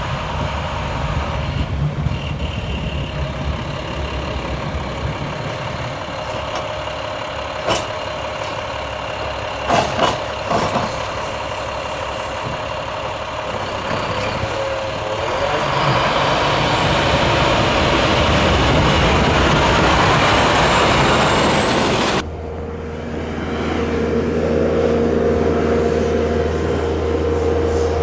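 Heavy truck engines running, with a few sharp knocks and clanks around eight and ten seconds in. About twenty-two seconds in the sound cuts abruptly to a steadier engine drone.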